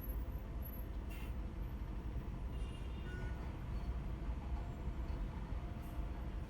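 Car driving in congested city traffic on a wet road: a steady low rumble of engine and tyres, with short hisses about a second in and again near the end.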